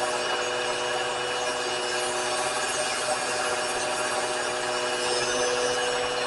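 Power grinder running steadily and grinding metal, a constant rasping hiss over a steady motor hum.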